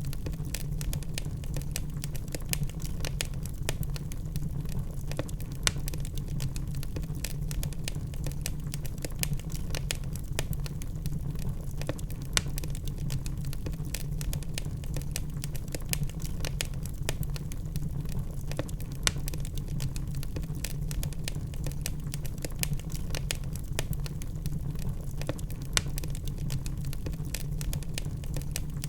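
Logs burning in a fireplace: dense, irregular crackling and popping over a steady low rumble of the fire, with an occasional sharper pop.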